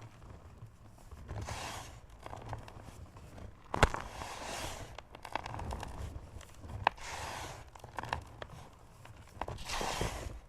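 A rectangular block of gym chalk being crushed, crunching and crumbling to powder in four separate swells. There is a sharp snap about four seconds in, the loudest moment, and a smaller one near seven seconds.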